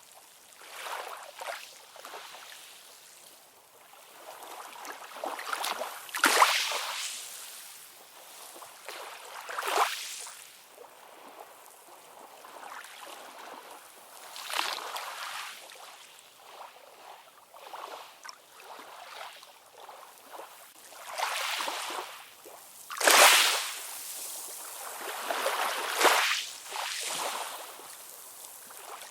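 Ocean waves washing in and sliding back, a hiss that swells and falls in irregular surges every few seconds, with the strongest breaks about six seconds in, about ten seconds in, and twice near the end.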